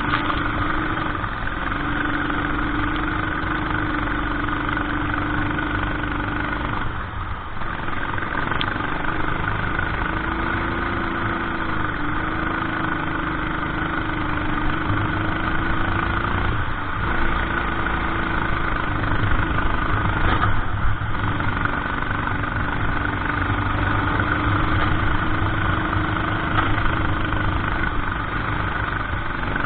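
Racing kart engine running steadily at speed, its drone dipping briefly three times as the revs drop and pick up again.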